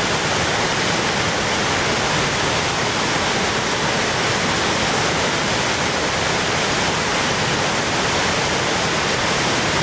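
The Orkhon Waterfall pouring: a loud, steady rush of falling water.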